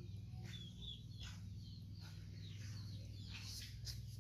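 Small birds chirping in the background, short high falling notes repeated at irregular intervals, over a steady low hum.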